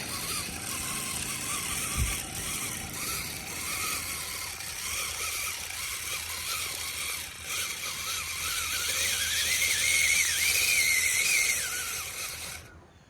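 A small motor running with a wavering whine that climbs in pitch in the second half, then stops abruptly near the end.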